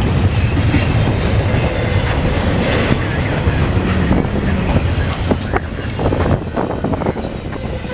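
Norfolk Southern intermodal freight train rolling past with a steady low rumble, its wheels clacking sharply over the rail joints several times in the second half. The rumble eases off slightly near the end.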